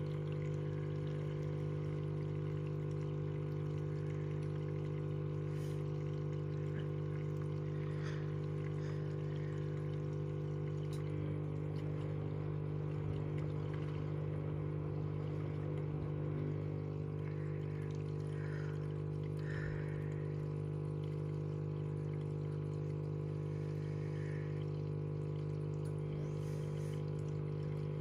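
Washing machine mid-wash: water pouring and sloshing in the drum over a steady machine hum.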